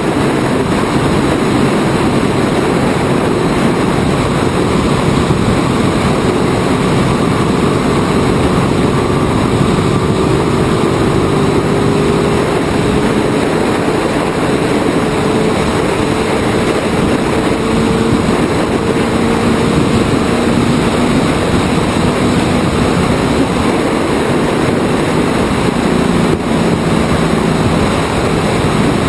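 Open-wheel Indy-style race car's engine running at part throttle on track, its note rising slowly, under a loud steady rush of wind and road noise.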